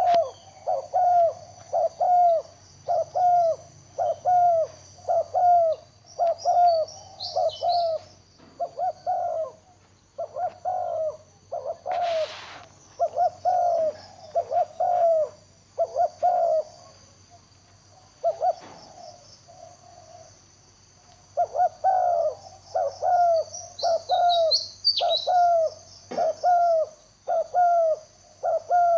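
Spotted dove cooing: a long series of short, evenly spaced coos, about three every two seconds, breaking off for a few seconds about two-thirds of the way through and then resuming. Short high chirps of another small bird come in twice.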